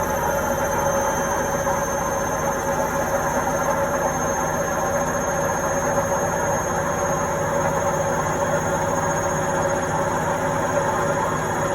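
Indesit washing machine running steadily, its motor giving a constant whine over a low drone.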